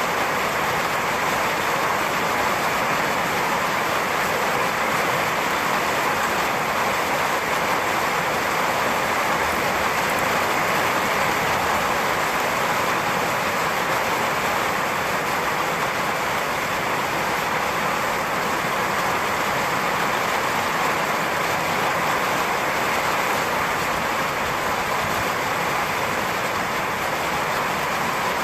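Steady rain falling, an even unbroken wash of noise with no thunder.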